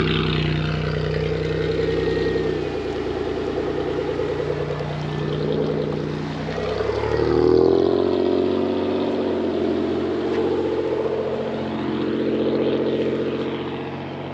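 Pontiac Bonneville's loud exhaust running with a deep, steady note. The tone shifts and sweeps hollowly as the sound moves, and about seven seconds in the lowest rumble drops away and the note changes.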